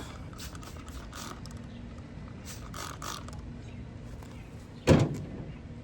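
Faint clicks and rattles of hand tools being handled, then one loud clunk near the end.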